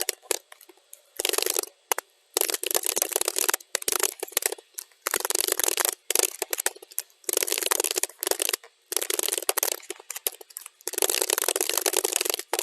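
Computer keyboard typing, sped up to double speed: runs of rapid keystroke clicks lasting a second or two, broken by short pauses.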